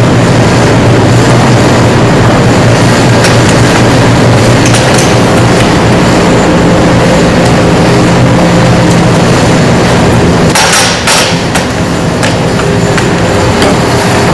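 Heater running with a loud steady drone and low hum, with a few sharp knocks about ten and a half seconds in.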